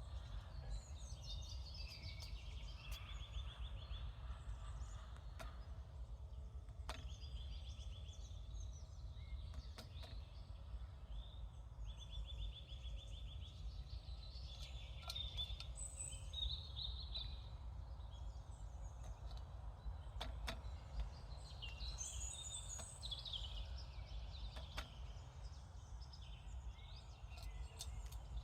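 Several wild songbirds singing at once, with repeated fast trills and varied phrases, over a steady low rumble. A few scattered sharp ticks sound among the songs.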